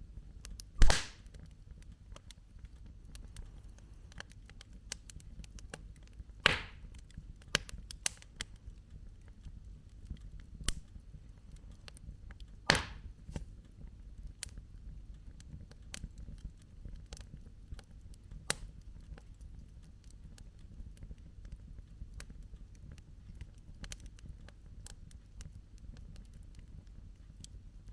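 Wood campfire crackling, with many small pops scattered throughout and louder snaps about a second in, around six seconds in and around thirteen seconds in, over a low steady rumble.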